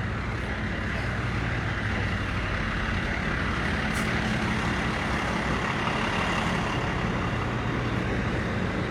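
A heavy vehicle engine running steadily, a low hum under a continuous rushing noise.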